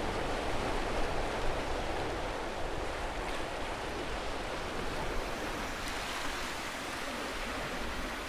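Sea surf breaking and washing up a beach, a steady rushing noise.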